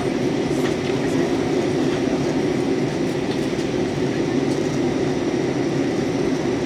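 Steady cabin noise of a jet airliner in flight, heard from inside the passenger cabin: an even, unbroken low rushing drone.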